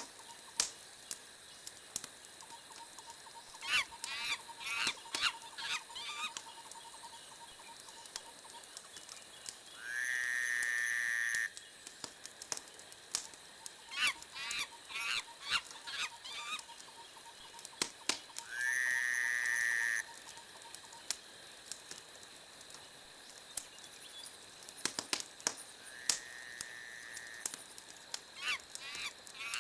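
Wood fire in a fireplace crackling and popping, with bursts of rapid crackles. Twice a high whistle rises and then holds for about a second and a half, and a fainter whistle comes near the end.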